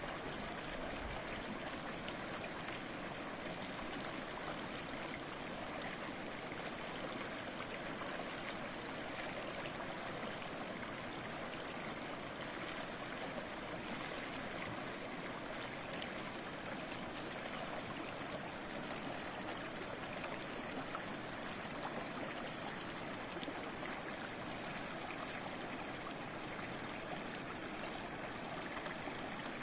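Stream of water flowing steadily with an even, continuous babbling rush.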